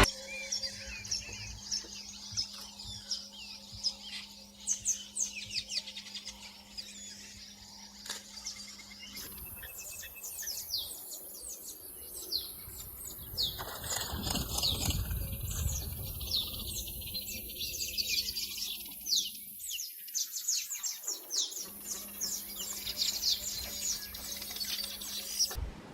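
Birds chirping: many short, high chirps in quick succession. A low steady hum sounds under them for the first third.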